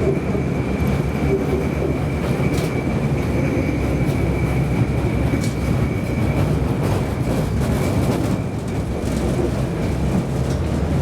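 Tram running on its rails, heard from inside the car: a steady low rumble with a constant high whine over it and a few faint clicks.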